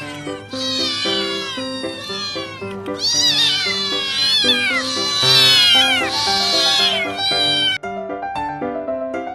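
Cats meowing loudly and repeatedly, each meow falling in pitch, over background piano music; the meows stop about eight seconds in, leaving only the piano.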